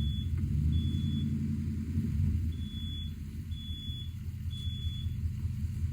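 Car engine dropping from a rev into a lumpy, rumbling idle after a burnout. A short high electronic beep repeats about once a second over it.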